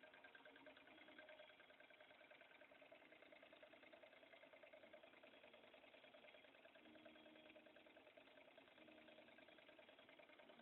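Small model Stirling engine running steadily: a faint, fast, even mechanical patter.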